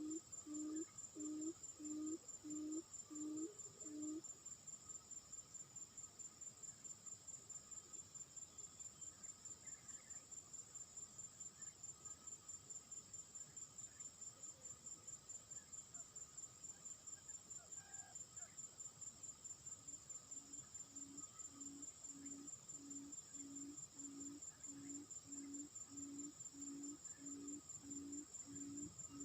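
Insects trilling steadily and high, with a series of low hoots at just under two a second in the first few seconds that stops and resumes about two-thirds of the way through.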